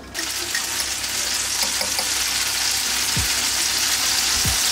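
Minced garlic sizzling in hot olive oil in a frying pan. The sizzle starts suddenly as the garlic goes into the oil and then holds steady.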